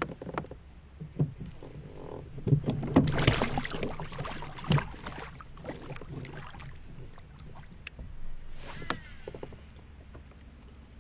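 Handling noises in a small fishing boat: scattered knocks and clatter, with a louder rustling, clattering spell from about two to five seconds in and a few more knocks near the end.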